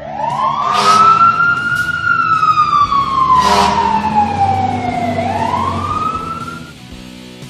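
Cartoon siren sound effect wailing in one slow cycle: a rise, a long fall, then a rise again before it stops. Two short hissing bursts cut through it, about a second in and again about three and a half seconds in.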